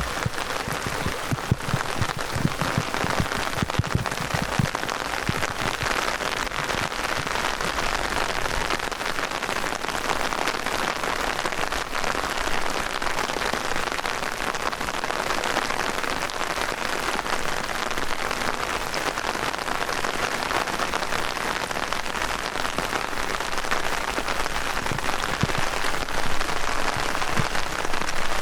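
Heavy downpour: steady, dense rain hiss with close drop hits, including a few deeper thuds in the first few seconds.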